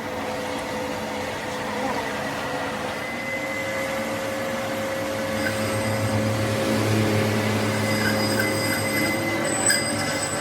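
A workshop machine running steadily with a steady hum and whine, growing a little louder about halfway through, with a few light ticks near the end.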